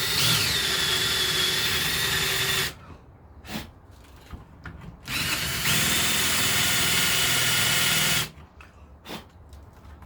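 Power drill running in two steady bursts of about three seconds each, boring a hole in wood, with a few light knocks in the pause between them.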